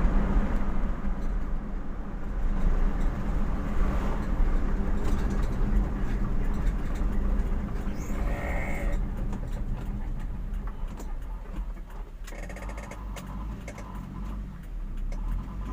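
Steady engine and road noise heard from inside a moving vehicle. A brief higher-pitched sound comes about eight seconds in, and a short run of quick ticks about four seconds later.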